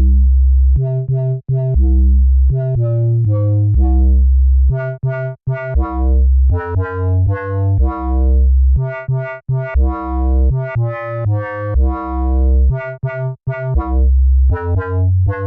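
Dub bass patch on Arturia's Pigments software synthesizer playing a bassline of short and held notes. It has a deep low end with a metallic, bell-like edge that comes from phase modulation.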